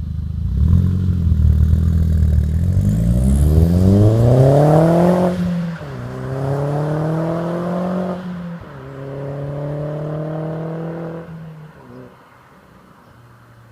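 Audi TT 225's turbocharged four-cylinder through a 3-inch catless turbo-back exhaust, accelerating hard through the gears: the engine note climbs, drops at an upshift about five seconds in and again about three seconds later, then fades away near the end.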